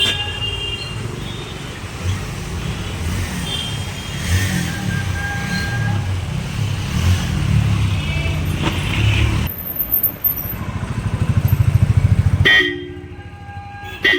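Newly fitted Roots Megasonic electric horns on a Honda Activa 3G scooter being sounded in a test, giving short honks over a low background rumble, with the clearest, strongest honk near the end.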